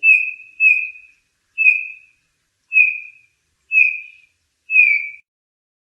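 Bullfinch calling: six short whistled notes, each a single pitch falling slightly at its end, spaced about a second apart.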